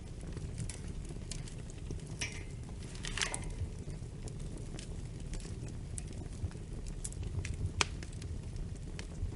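Fireplace fire crackling over a steady low rumble, with scattered pops throughout, a brief hiss a little after three seconds, and one sharper pop near eight seconds.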